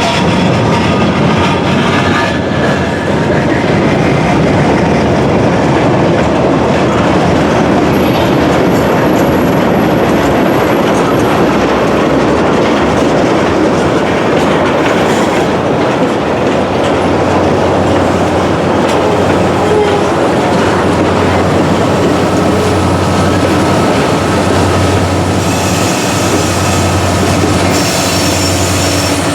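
Freight train cars rolling by, their wheels clattering on the rails. A high wheel squeal comes in near the end.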